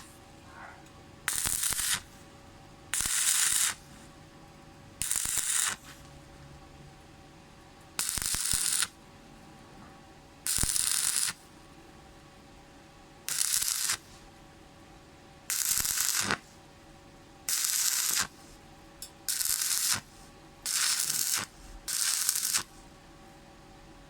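Stick-welding (SMAW) arc crackling in short bursts, each under a second, struck about eleven times with pauses of one to three seconds between. A steady low hum runs underneath.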